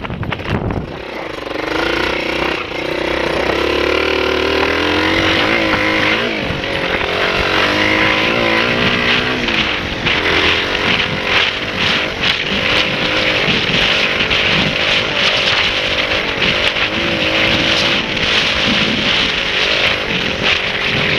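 Honda XLR125 dirt bike's single-cylinder four-stroke engine running, its revs rising and falling.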